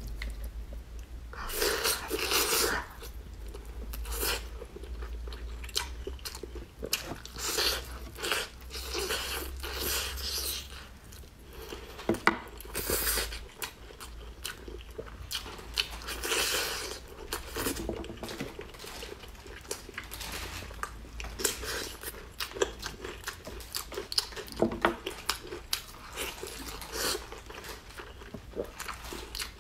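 A person eating pork spare ribs close to the microphone: biting and chewing the meat off the bones, a run of short, sharp mouth sounds at irregular intervals with louder clusters every few seconds.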